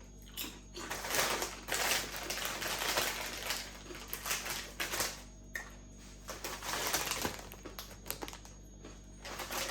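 A crunchy snack being eaten from its packet: irregular crackly crunching and crinkling, densest in the first few seconds, then scattered clicks.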